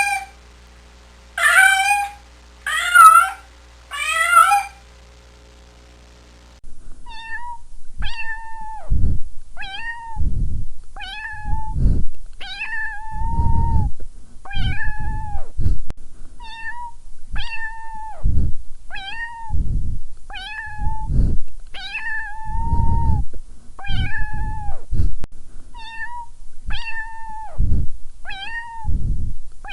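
Domestic cat meowing: four loud, drawn-out meows in the first five seconds, then after a short pause a long run of shorter, steadier mews repeated about every second and a half.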